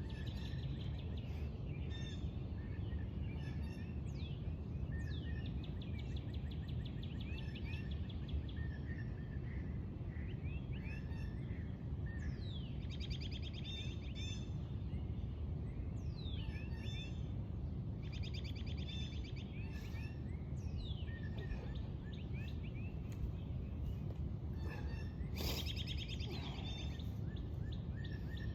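Several wild birds singing and calling, with rapid trills and down-slurred whistles, over a steady low background rumble. One brief louder sound cuts through about 25 seconds in.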